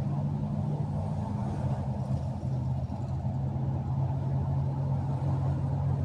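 Northbound train running past with a steady low rumble and a steady low hum.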